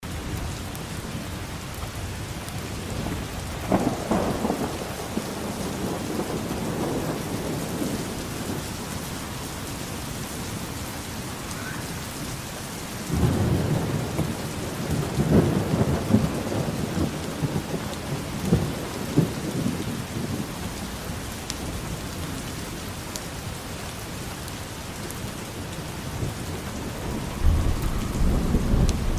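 Steady rain falling, with rolls of thunder rumbling over it: a short one about four seconds in, a longer rolling one from around the middle, and another building near the end.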